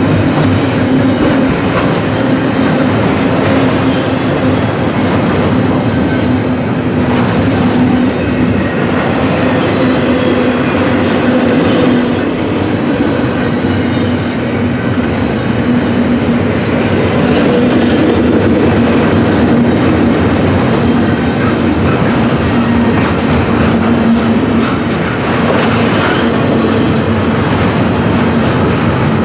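CSX freight train rolling past: a steady rumble of steel wheels on rail with the clickety-clack of the cars, over a steady low hum.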